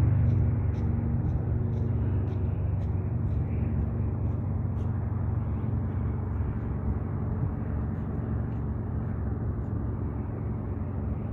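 Steady low rumble of a running engine, with a faint hum that fades after about two seconds and light clicks that thin out over the first few seconds.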